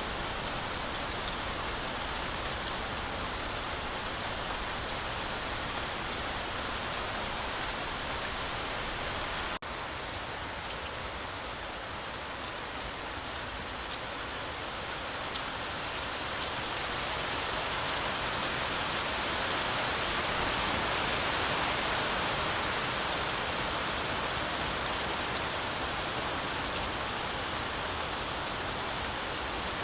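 Heavy rain falling steadily, a continuous hiss of rainfall. It drops out for an instant about a third of the way in and swells a little louder around two-thirds through.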